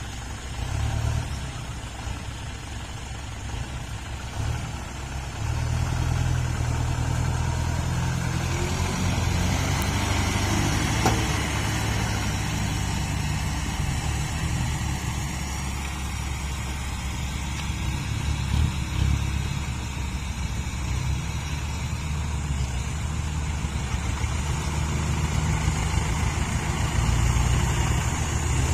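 Dump truck engine running, revving up and getting louder about five seconds in and again near the end.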